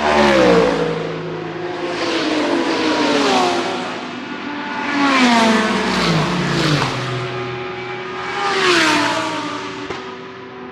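GT3 race cars passing one after another at speed, each engine note dropping in pitch as it goes by. About four cars, the loudest about half a second in and another near the end.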